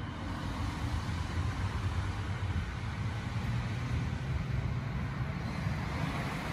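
JR East 209 series electric commuter train pulling out and moving away, a steady rumble of traction motors and wheels on the rails.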